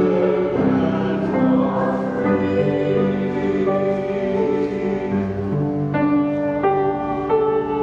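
Church choir singing, with held notes changing in steps.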